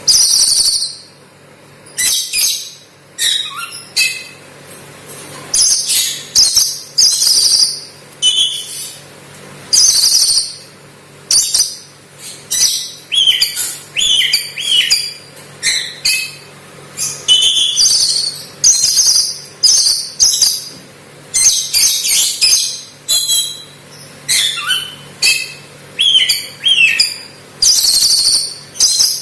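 Oriental magpie-robin (kacer) singing a song filled with mimicked lovebird calls: short, shrill, high-pitched phrases that follow one another every second or two.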